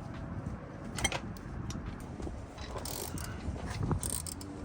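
Hand tools clicking and clinking on metal as a bolt on the engine is worked loose with a 14 mm wrench or ratchet, in irregular clicks.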